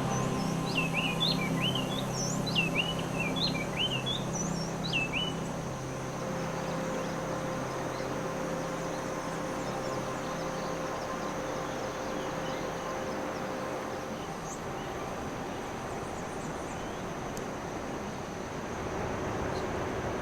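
A bird calling in a quick run of sharp chirps that sweep down in pitch for the first five seconds or so, then a steady hiss of forest ambience.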